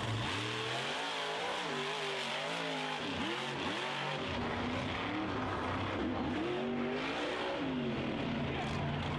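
Mud truck engines revving hard, the pitch climbing and dropping over and over, over a steady rushing noise.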